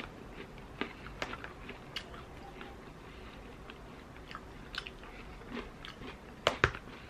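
Close eating sounds: a man chewing spoonfuls of ice cream with crumbled Oreo cookies, with scattered soft clicks of a metal spoon in a plastic tub. A sharper click comes about six and a half seconds in.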